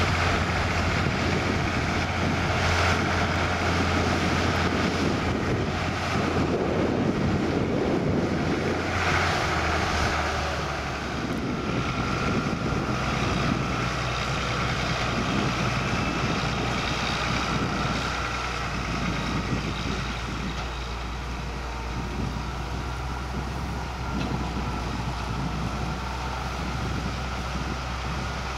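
Farm machinery at a potato harvest, the harvester and tractor engines running steadily under wind noise on the microphone. The engine hum drops lower and a little quieter about ten seconds in.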